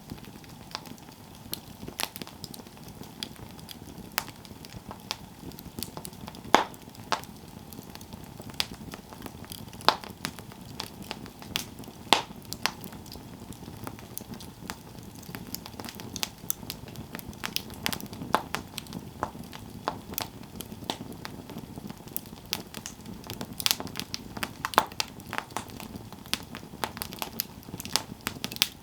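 Campfire burning, wood crackling and popping irregularly over a low steady hiss, with a few louder sharp pops. The crackling becomes denser toward the end.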